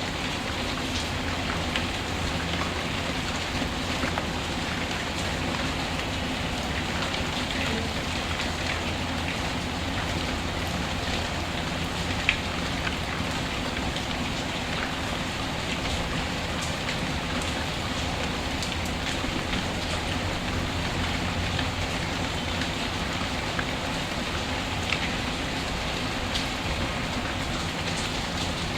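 Steady rain falling, an even hiss of drops, with scattered small crackles and ticks from a wood fire in a fireplace.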